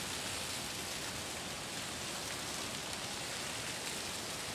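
Freezing rain falling steadily on ice-glazed branches and snow, an even, continuous hiss.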